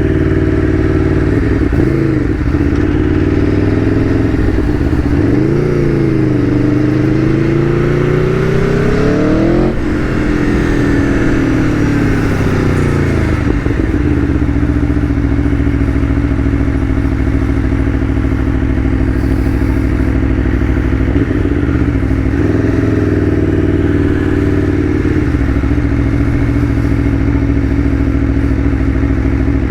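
Aprilia Tuono V4 1100 Factory's V4 engine running under way. The revs climb for several seconds, drop away sharply about a third of the way in, then hold fairly steady with a brief dip and rise about two-thirds of the way through.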